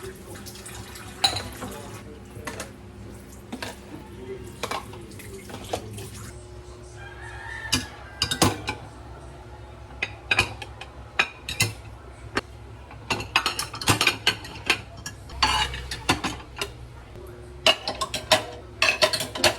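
Dishes and cutlery clattering and clinking in irregular sharp knocks, busier in the second half.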